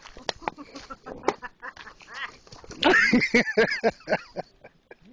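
A person laughing hard in a quick run of short, bending, quack-like bursts a little after halfway through, after a few sharp clicks or crunches.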